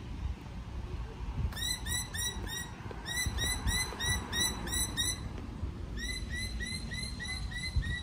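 A bird calling in three runs of quick, evenly repeated chirps, about four a second, over a low rumble.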